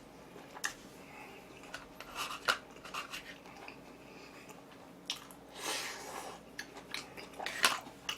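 A person chewing food close to the microphone: soft, faint mouth sounds with scattered short clicks and smacks, and a few brief louder bites or smacks.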